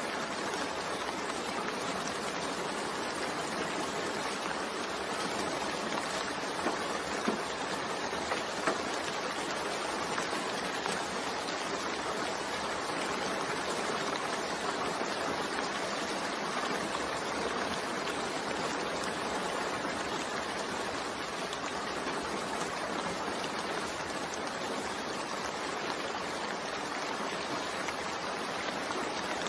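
Steady rain, an even hiss of falling water, with a few slightly louder drop hits about seven to nine seconds in.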